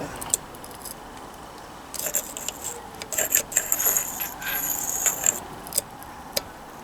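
Small metal parts clinking and scraping together as crankshaft sludge-trap parts are handled and fitted: a quiet start, then from about two seconds in a run of light clicks and rattles with a bright metallic ring.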